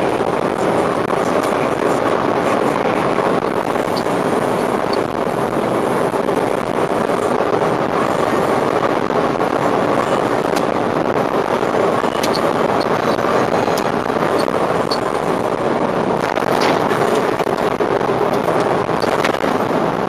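Semi truck driving on the road: a steady drone of engine and tyre noise with no change in pace, and a few faint clicks.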